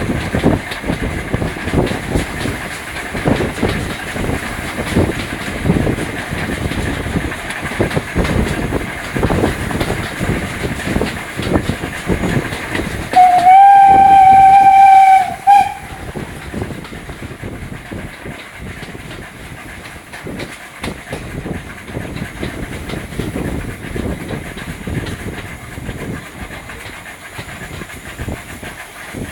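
Steam locomotive 47406, an LMS 'Jinty' 0-6-0 tank engine, working a train with a rhythmic beat and rattle of wheels and coaches. About halfway through it sounds one loud steam whistle blast of a couple of seconds, ending in a short pip. After that the running is quieter.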